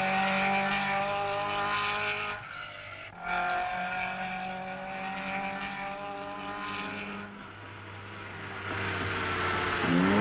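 Rally car engines running at steady, high revs as cars climb a mountain pass. The sound drops out briefly about three seconds in, then resumes, and it fades in the second half. Right at the end, another engine revs up with a rising note.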